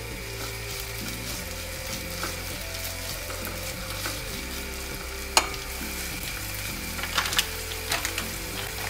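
Sliced peppers and garlic sizzling in hot olive oil in a stone-coated pan, stirred with a spatula. There is a sharp knock of the spatula against the pan about five seconds in, and a few lighter knocks and scrapes near the end.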